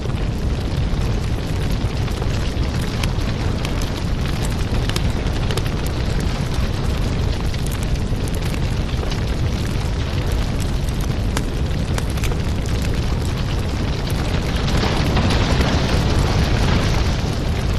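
Wood fire in a fireplace crackling, with frequent sharp pops over a steady low rumble; a louder hiss swells up about fifteen seconds in.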